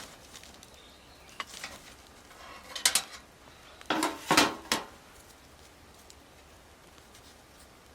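Metal camp gear being handled: a few short clinks and clatters, the loudest cluster about four seconds in.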